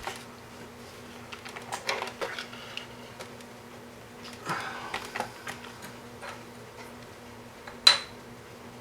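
Rummaging through small tools and parts on a workbench while looking for solder: scattered clicks, light clatter and rustling, with one sharp ringing clink near the end. A faint steady hum runs underneath.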